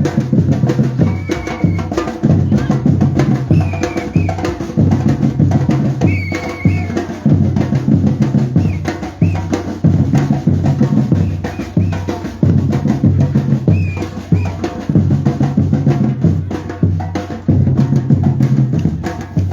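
Batucada drum group playing: bass drums beating a steady repeating rhythm under rapid snare-drum strokes.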